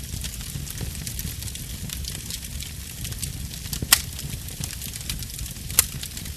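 Burning wood fire crackling, with a steady low rush of flame under many small snaps and two sharper pops, about four seconds in and again near six seconds.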